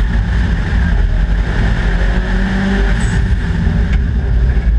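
Subaru Impreza WRX STI's turbocharged flat-four engine pulling hard at speed in a hill-climb run, heard onboard. The engine note shifts slightly in pitch over a constant hiss.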